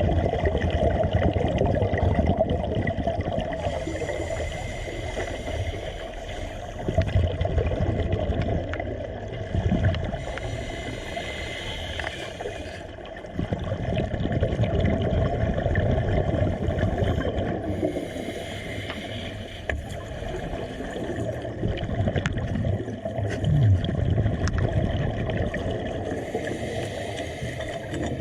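Water gurgling and sloshing over a steady motor hum from the work boat and its equipment.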